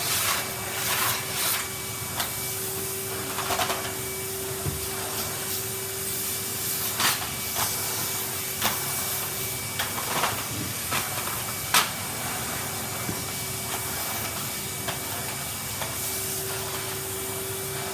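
Vacuum cleaner running steadily over a carpet, a constant hiss with a steady hum and whine, broken by a few short clicks and knocks.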